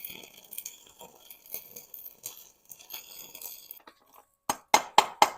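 Light clinking and rattling of metal welding gear being handled, then five quick, sharp metal strikes near the end.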